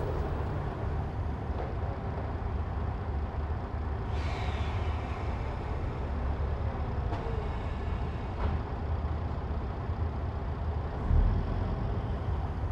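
Diesel railcar standing with its engine idling in a steady low rumble, a brief hiss of released air about four seconds in, and a low thump near the end.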